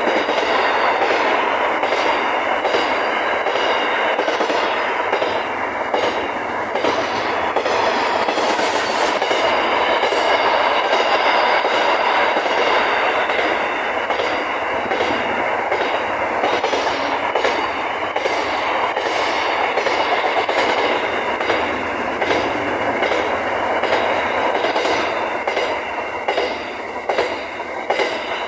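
Container wagons of an intermodal freight train rolling past close by, a continuous rumble of wheels on rail broken by many irregular wheel clacks.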